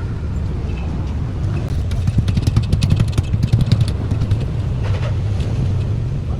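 An engine running steadily, with a fast clattering rattle that swells in the middle and then eases.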